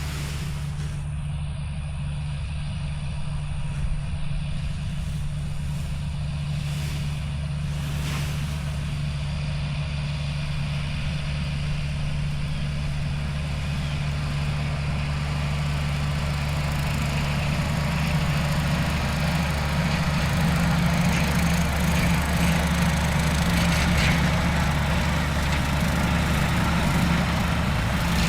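Paramotor trike engine idling steadily, growing somewhat louder in the second half.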